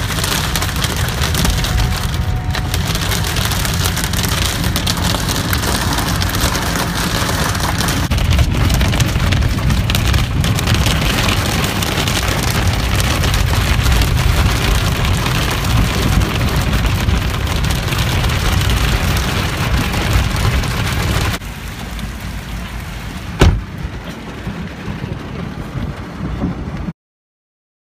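Heavy rain drumming on a car's roof and windshield, heard from inside the car as a dense, steady patter with a deep rumble beneath. About 21 s in it gives way to quieter rain falling on a flooded street, with one sharp knock a couple of seconds later, and stops abruptly near the end.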